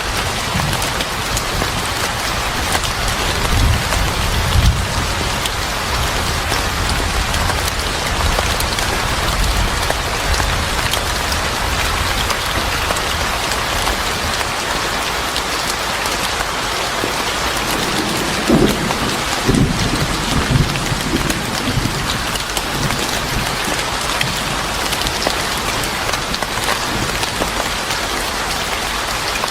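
Steady heavy rain pattering on a surface, with low rumbles of thunder in the first few seconds and again a little past the middle.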